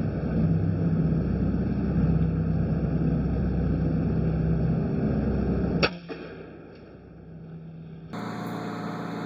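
Steady running of farm machinery, a loud low hum with a few steady tones, that stops suddenly with a sharp click about six seconds in, leaving a quieter steady hum.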